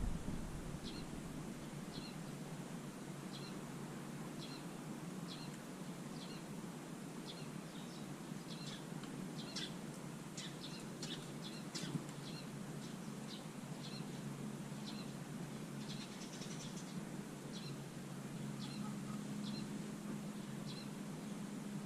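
A small garden songbird chirping repeatedly, one short high call about every two-thirds of a second, with a brief flurry of sharper, higher calls around the middle. A faint steady low hum runs underneath.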